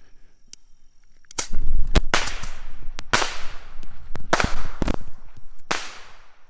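Bottle rockets going off: a rapid string of about eight to ten sharp cracks over some four seconds, some in quick pairs, each trailing off briefly.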